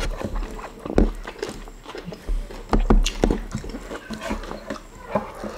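Close-up eating sounds: wet chewing and lip smacking in irregular short bursts as rice and fried chicken are eaten by hand.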